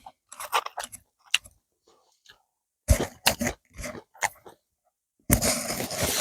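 Close-up chewing and crunching of someone eating bony grilled mackerel, in short irregular bites and clicks. A longer, denser noise starts near the end.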